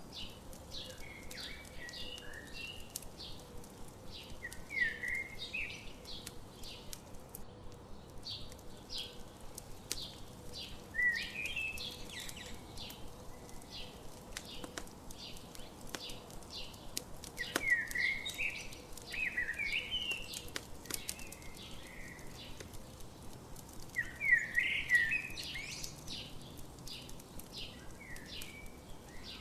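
Songbirds chirping in short clusters of quick calls every few seconds, loudest a little before the end, over the steady crackle and small pops of a campfire.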